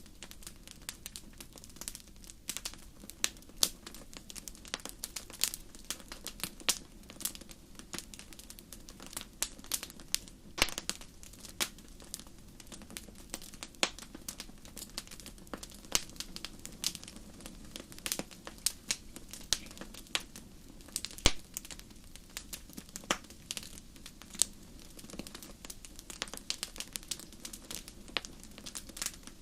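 Wood fire burning in a fireplace, crackling and popping in irregular sharp snaps over a low steady hiss.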